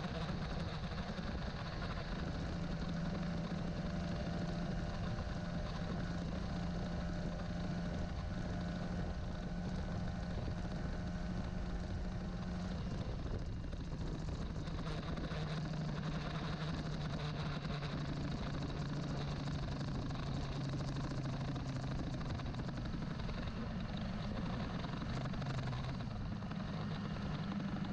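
Old-model Honda CBR150R's carbureted single-cylinder four-stroke engine running steadily after a fresh build and carb setting, its pitch dipping slightly about halfway through and again near the end.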